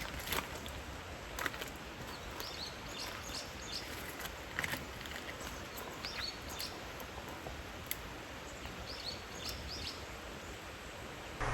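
Small birds chirping in short, scattered calls over a steady background hiss, with a few sharp clicks.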